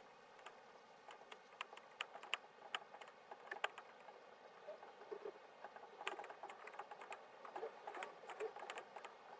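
Faint, irregular light clicks and taps, several a second, over a quiet steady hiss.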